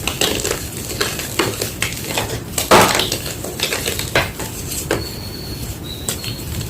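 White gym chalk crunching: irregular crisp, crackly crunches, one louder crunch about three seconds in.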